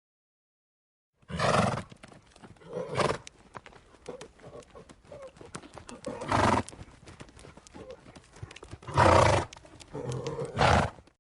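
A horse calling about five times, with the clop of hooves and small clicks between the calls.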